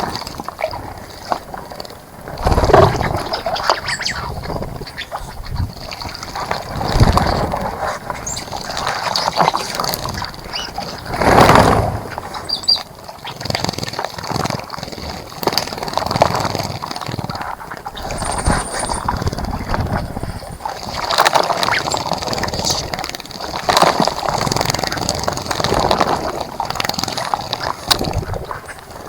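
Birds bathing in a bird bath, splashing water in irregular bursts, with a steady faint high hiss behind.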